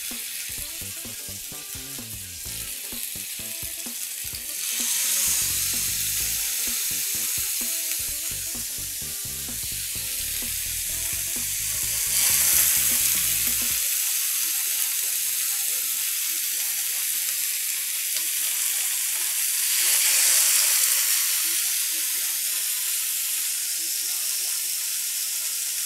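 Marinated chicken tikka skewers sizzling in oil on a flat dosa griddle (tawa): a steady frying hiss that swells a few times as more skewers are laid down.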